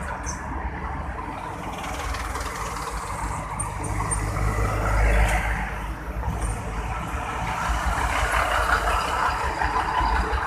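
Heavy trucks and other road traffic passing, with a continuous rumble of engines and tyres. A low rumble swells about halfway through as a heavy vehicle passes close.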